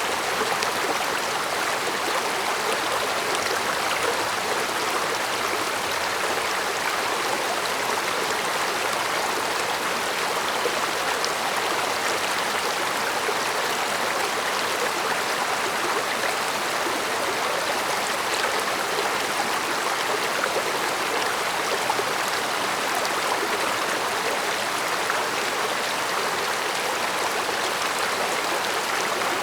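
Stream water flowing and burbling over rocks, a steady murmur.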